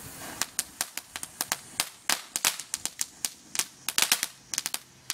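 Firecrackers going off in a rapid, irregular string of sharp cracks, several a second, loudest about four seconds in.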